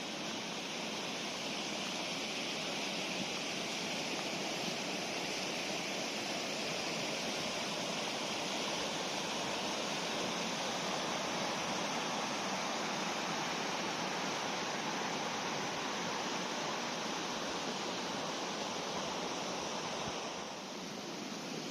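Fast-flowing river water rushing steadily, dipping slightly just before the end.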